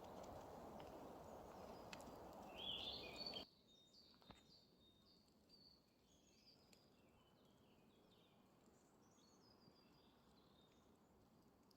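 Faint running water of a stream, with a short bird call just before it cuts off abruptly about three and a half seconds in. After that only a quiet background is left, with small birds chirping and twittering on and off.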